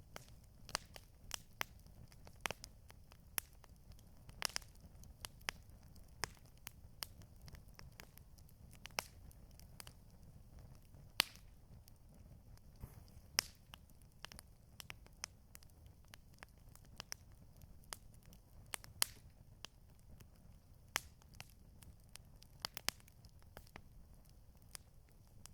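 Wood campfire crackling: irregular sharp pops and snaps, a few a second, over a low steady rumble.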